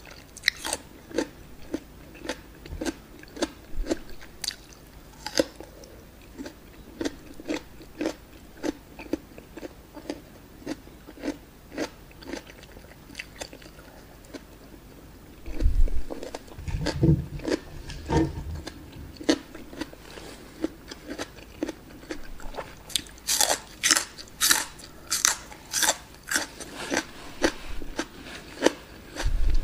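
Close-miked chewing of crisp raw vegetables: a steady run of wet crunches, about one and a half a second. There are a few dull low bumps about halfway through, and louder, sharper crunches a little past two thirds of the way in.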